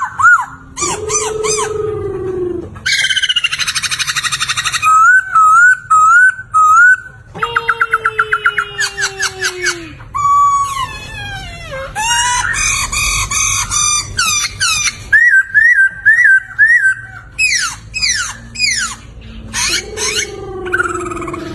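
Poksay (laughingthrush) singing loudly in varied phrases: whistled notes sliding up and down, runs of fast evenly repeated notes, and harsh chattering passages, with short pauses between phrases.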